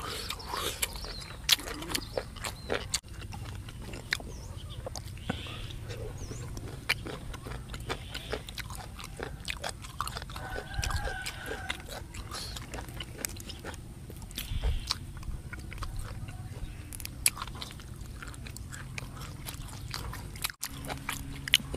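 Close-up chewing and biting of grilled beef and fresh herbs by two people eating: irregular wet mouth clicks and smacks.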